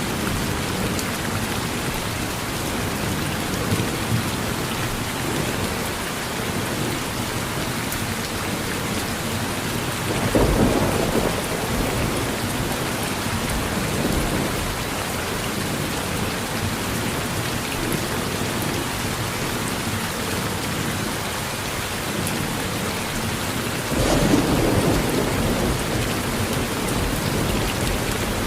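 Steady heavy rain hissing on a porch, with two rolls of thunder: one about ten seconds in and a louder one near the end, each rising suddenly and rumbling off over a few seconds.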